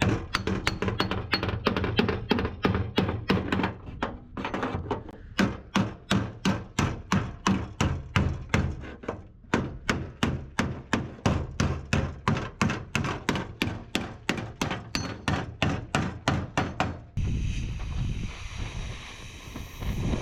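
Hammer blows on the sheet metal of a Mercedes-Benz truck cab, struck in a steady rhythm of about three a second with two short pauses, as a panel is beaten out. Near the end the hammering stops and a steady rushing noise takes over.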